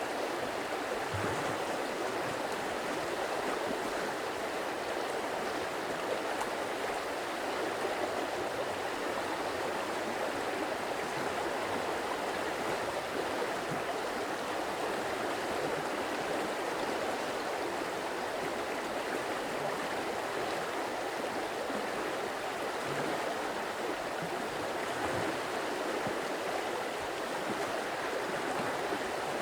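A stream or small waterfall running steadily, a continuous rushing and burbling of water with a few faint low gurgles.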